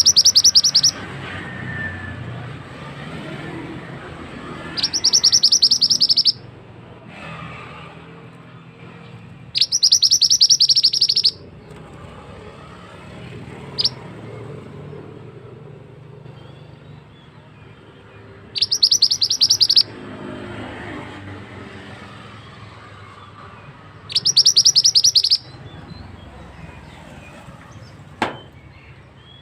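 Mantenan bird singing: five bursts of rapid, high, rattling trilled notes, each lasting a second or so, with pauses of several seconds between them, over a steady background of flowing water.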